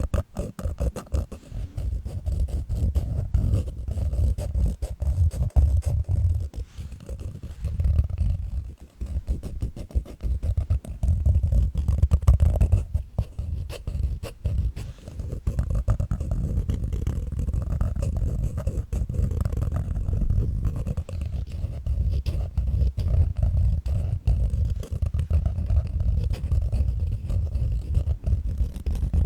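Sleep-aid noise track: a continuous deep rumbling noise that flickers rapidly with a rough, crackling texture, dipping briefly about nine seconds in.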